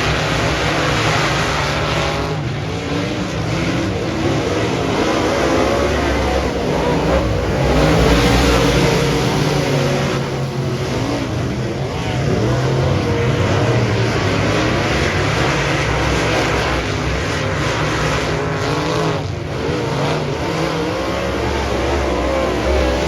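Modified race car engine running hard, the revs rising and falling again and again, with brief lifts every several seconds.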